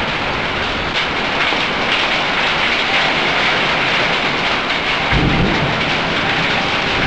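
Heavy rain pouring down in a steady hiss, with a low rumble of thunder starting about five seconds in.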